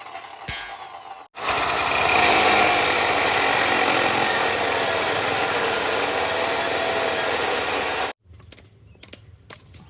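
A power saw cutting through wood for about seven seconds, starting and stopping abruptly, followed by a few light knocks and clatter.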